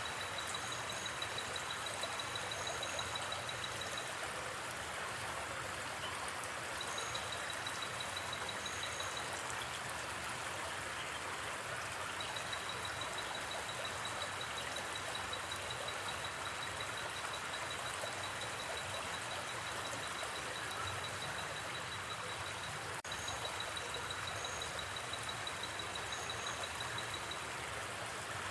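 Steady rush of a gently flowing river. Over it an insect trills in long runs of rapid, evenly pulsed high notes that stop and start again, with scattered paired chirps higher still and a single sharp pop about three-quarters of the way through.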